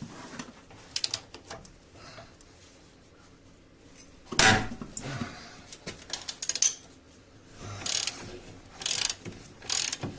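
Ratchet wrench clicking in short strokes as the car's subframe bolts are backed out, with one loud knock about four and a half seconds in.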